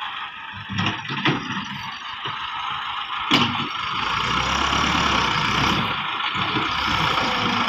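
Massey Ferguson 375 tractor's diesel engine running, with a deeper rumble coming in from about four seconds in. A few knocks sound about a second in and a sharper one a little after three seconds.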